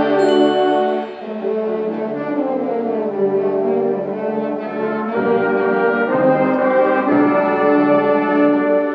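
High school symphonic band playing a slow passage of held, shifting chords, led by the brass.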